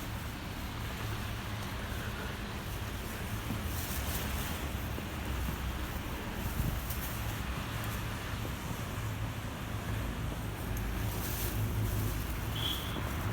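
Snowstorm wind blowing steadily and buffeting the microphone with a low, fluctuating rumble.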